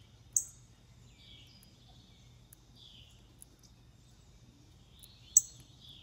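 Wild songbirds calling: a repeated down-slurred note about every second and a half, with two sharp, loud, high chip notes, one just after the start and one near the end.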